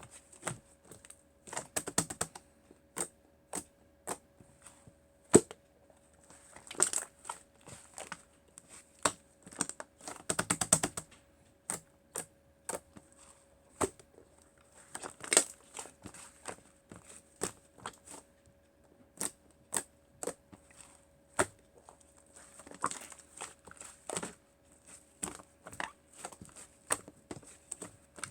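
Hands handling small craft materials: irregular light clicks, taps and crinkles, with a quick run of rapid clicks about ten seconds in, over a faint steady hum.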